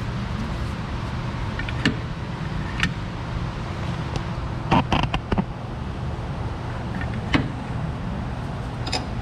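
Metal parts and tools clanking and knocking, a handful of sharp strikes with a quick cluster about halfway through, as a new suspension control arm is worked into its mounts. A steady low hum runs underneath.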